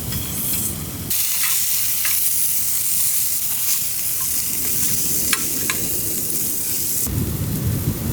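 Food sizzling in a hot pan, a dense hiss with scattered sharp crackles that starts abruptly about a second in and cuts off about a second before the end. A low rumble fills the moments before and after it.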